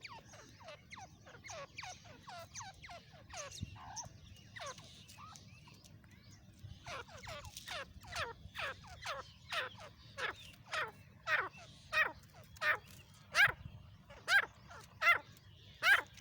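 Partridge (teetar) calling: a long series of short, downward-sliding notes. They are faint and scattered at first, then from about seven seconds in come louder and evenly spaced at about two a second.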